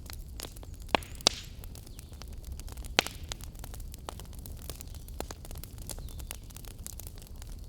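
Wood fire burning in a fireplace: a steady low rumble and hiss under constant crackling, with three sharper pops, about a second in, just after, and about three seconds in.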